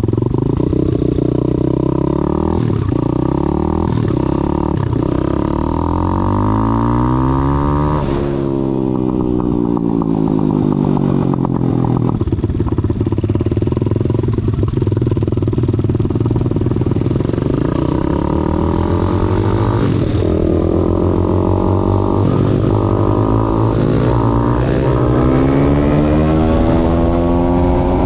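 YCF SP3 pit bike's Daytona 190cc single-cylinder four-stroke engine under hard riding, with a Mikuni carburettor. The revs climb in steps through several quick gear changes, drop sharply about eight seconds in and wind down, then hold before climbing again through the gears near the end.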